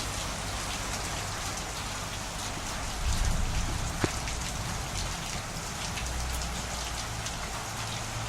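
Steady rain falling, with individual drops ticking on surfaces. A low rumble comes in about three seconds in, and a single sharp tap sounds about a second later.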